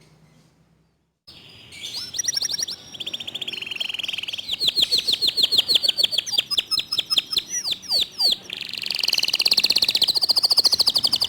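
Domestic canary (local breed) singing loudly, starting about a second in: long, fast trills of rapidly repeated notes, with a few quick sweeping notes partway through.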